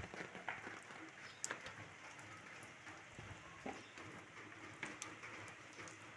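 Steady rain falling, with a few sharp taps of drops standing out.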